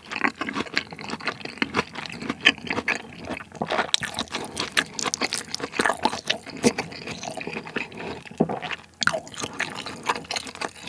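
Close-miked chewing of a mouthful of curry rice with pork neck chunks and paprika: a steady run of many small sharp mouth clicks and squelches.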